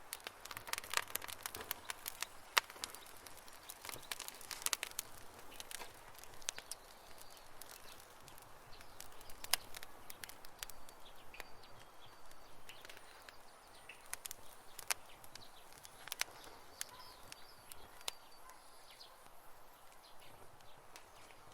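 Wood campfire crackling, with irregular sharp pops, a few louder than the rest, over a soft outdoor background. Faint bird chirps come in now and then in the second half.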